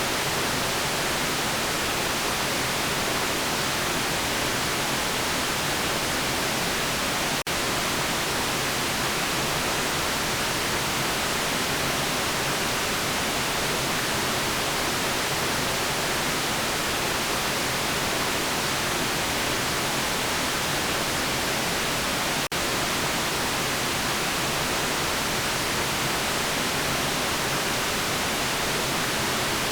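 Steady synthetic white noise, an even hiss strongest in the high frequencies. It drops out for a split second twice, about seven and twenty-two seconds in.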